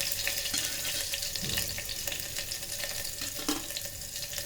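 Chopped ginger, garlic and green chilies sizzling in a little hot oil in an electric kettle: a steady hiss with small crackles.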